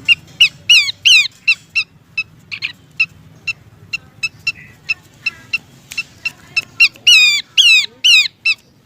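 Horsfield's babbler (pelanduk semak) calling: a fast run of short, sharp chip notes mixed with loud falling notes, grouped about a second in and again near the end. This is billed as a female's call to the male, used as a lure.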